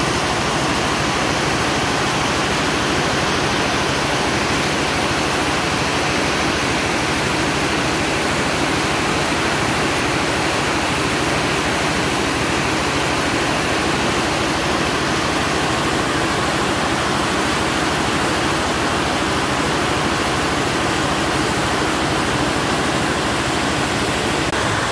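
Heavy rain pouring down, a steady loud hiss with no let-up.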